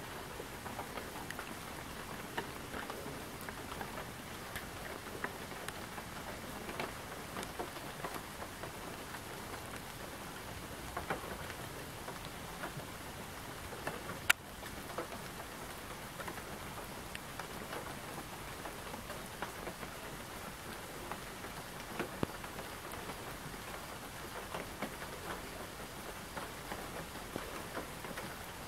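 Steady rain falling, an even hiss with many individual drops ticking. One sharp click stands out about halfway through.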